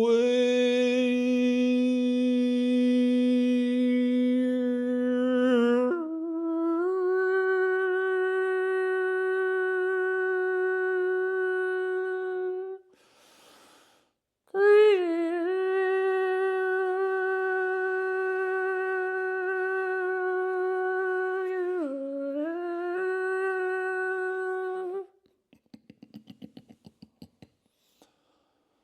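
A single voice humming long, steady notes as light-language sound poetry. A low note is held for about six seconds, then slides up to a higher one. After a short breath a second long note follows, with a brief dip in pitch, and stops about 25 seconds in. Faint quick clicks come near the end.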